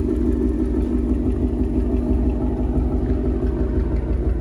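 V8 car engine running steadily, a low, even drone. The engine is being checked for a cylinder 8 misfire (code P0308) that new coil packs and spark plugs did not cure.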